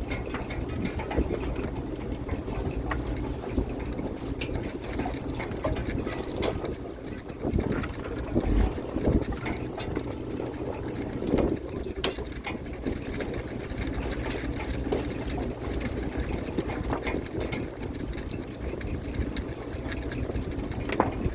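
A net-fishing boat's machinery running steadily with a fast mechanical rattle, and now and then a sharp knock or clatter.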